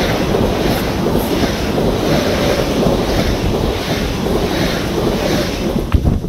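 PKP Intercity electric multiple unit passing close at speed: a steady rumble and rush of wheels on rail, with wind buffeting the microphone. A sharp knock comes near the end as the last car clears, and the noise drops away.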